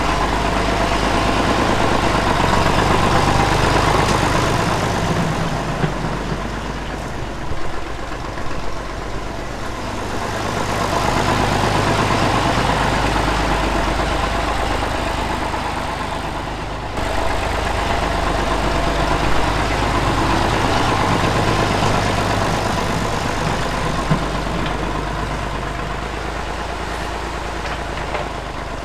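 Tractor engine running steadily, its loudness swelling and easing slowly twice, with an abrupt change about two-thirds of the way through.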